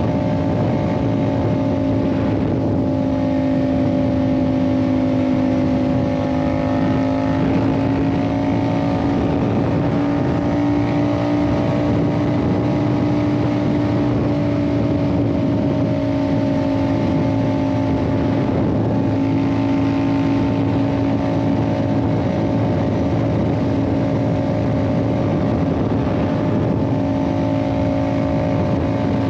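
Yamaha MT-07's parallel-twin engine, fitted with an Ixil aftermarket exhaust, running at a steady cruise under way, its note rising a little and settling back a few times.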